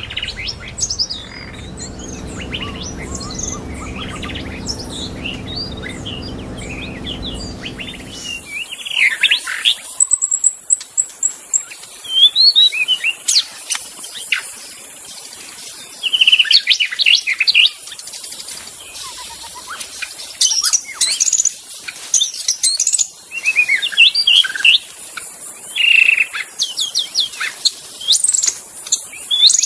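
White-rumped shama (murai batu) singing: loud, varied whistled phrases full of rising and falling glides, separated by short pauses. A low steady hum lies underneath at first and stops abruptly about eight seconds in.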